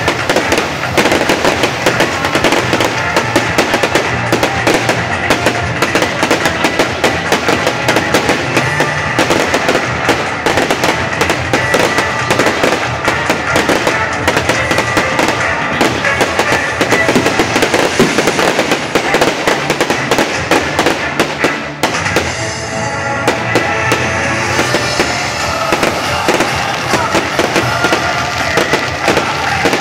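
Fireworks display: a dense, rapid crackle and banging of fountains, crackling stars and shells, with music playing under it. About two-thirds of the way through the bangs thin out briefly, leaving the music clearer, before the crackling picks up again.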